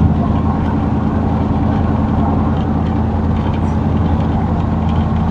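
V8 truck engine with a BTR Stage 1 truck cam, DOD and VVT deleted, running with a steady low drone, heard from inside the cab.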